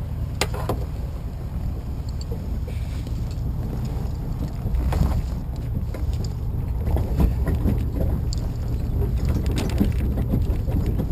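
Low, steady rumble of a tow vehicle pulling a boat trailer, with scattered knocks and rattles. The rumble swells about five seconds in.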